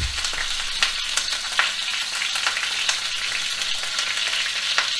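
Rabbit legs frying in hot olive oil in a cast iron pan: a steady sizzle with many quick crackling pops.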